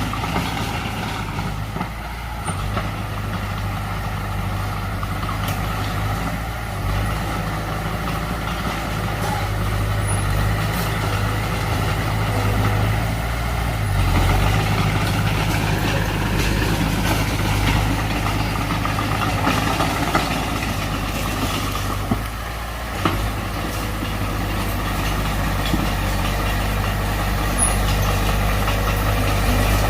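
Heavy diesel engine of earthmoving machinery running steadily under work, its low hum dipping briefly a few times.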